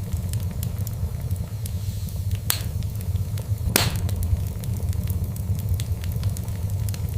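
Fireplace fire crackling over a low steady rumble, with many small crackles and two louder pops, about two and a half seconds in and just before four seconds, the second the loudest.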